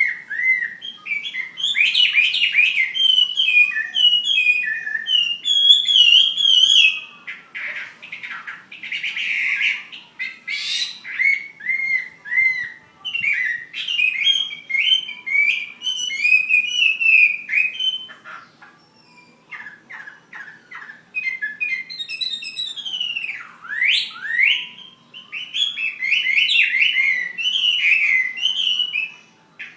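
Chinese hwamei singing a long, varied song of rapid whistled phrases, with a few short breaks.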